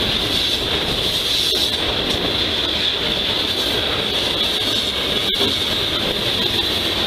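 CSX coal train's open-top coal cars rolling past close by, steel wheels running on the rails with a steady, loud rumble and a constant high-pitched wheel squeal over it.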